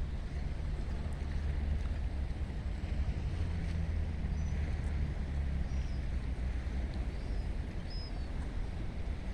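Steady low drone of ship and tug engines across the harbour, with a few faint short high chirps in the middle.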